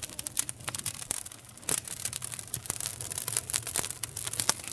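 Wood campfire crackling and popping: dense, irregular snaps over a steady hiss, with louder single pops about a second and a half in and near the end.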